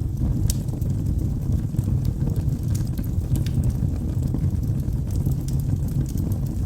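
Logs burning in a wood fireplace: frequent sharp, irregular crackles and pops over a steady low rumble of the flames.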